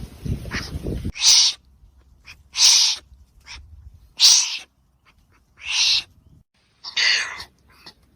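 Wombat giving a series of short, breathy huffs, one roughly every second and a half. A low rumble underneath cuts off about a second in.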